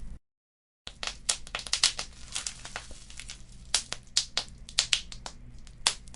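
Wood fire crackling in a fireplace: a dense, irregular run of sharp pops and snaps over a low steady hum. The sound drops out to total silence for about half a second just after the start.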